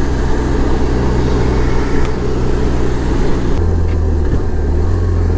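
BMW R1200 boxer-twin motorcycle engine running on the move under heavy wind rush. The engine note shifts to a lower, stronger drone about three and a half seconds in.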